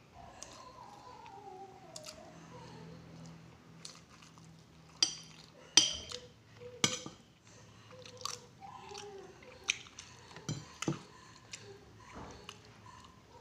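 Close-up chewing of fried noodles, with several sharp clinks of a spoon and fork against a ceramic plate, the loudest about halfway through.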